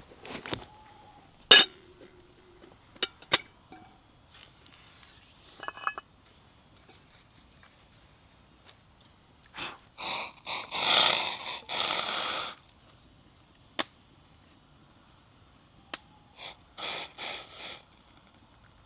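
Wood campfire crackling with scattered sharp pops and cracks, and two bursts of scraping noise, the longer one near the middle.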